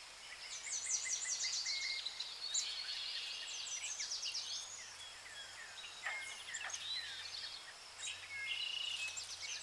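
A chorus of several songbirds singing at once: overlapping chirps and fast trills.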